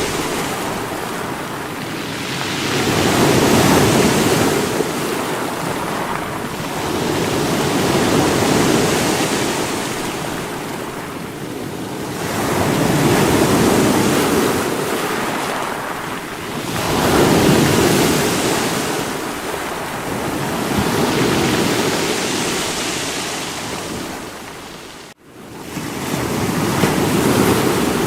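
Sea waves breaking against rocks, the surf swelling and falling back about every four to five seconds. The sound cuts out for an instant about three seconds before the end.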